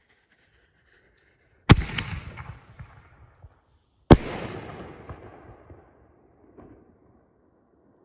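Black Cat Neon Diablo 5-inch canister shell being fired: two sharp booms about two and a half seconds apart, each trailing off in an echoing rumble, with a small pop afterwards.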